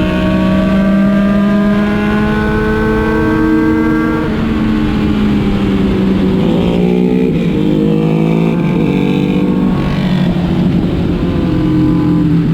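Motorcycle engine running under way, with wind noise. Its note climbs slowly, drops about four seconds in, then rises and falls in several short steps before settling.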